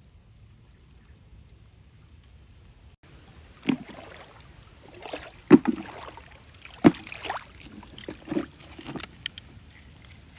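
Shallow water sloshing and splashing in a series of separate strokes, about six of them, beginning about three seconds in after a faint hiss.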